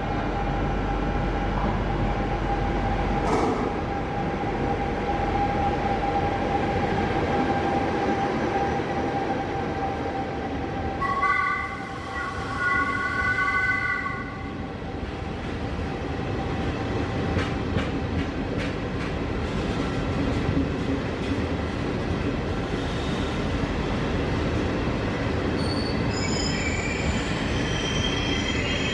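Electric trains running through a railway station: a steady running hum with a held tone, a brief pitched tone sounding twice a little before halfway, then a regional passenger train's wheels clicking over the rails, with high-pitched wheel squeal near the end.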